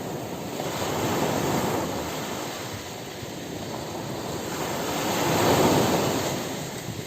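Sea waves washing onto a shore, swelling twice and ebbing between.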